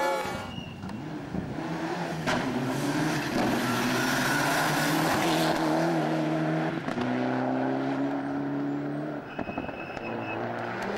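Rally car engine revving hard under acceleration, its pitch climbing and then dropping at gear changes about seven and nine seconds in, with a sharp knock a couple of seconds in.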